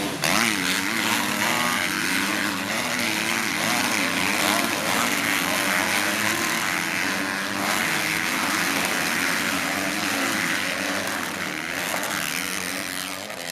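Several motocross bikes racing, their engines revving up and down with the throttle, overlapping.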